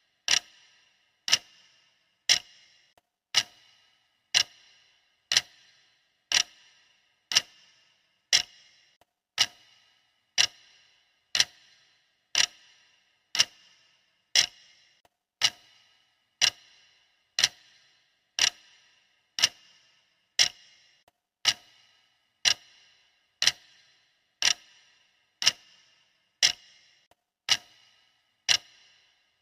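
Clock ticking steadily, one sharp tick a second, each with a short ringing tail.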